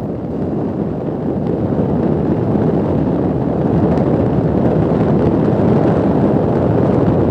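Wind buffeting the microphone: a loud, steady rumble with no engine tone standing out.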